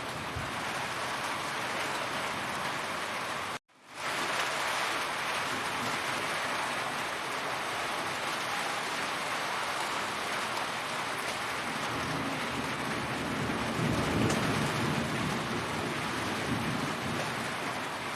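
Heavy rain falling steadily in a dense hiss. It cuts out completely for a moment about three and a half seconds in, and a low rumble, like distant thunder, swells past the middle.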